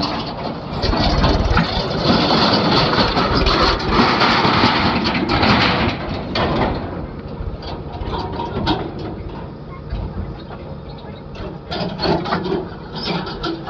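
Heavy vehicle engine running, loud for about six seconds, then dropping suddenly to a quieter level with scattered knocks and clicks.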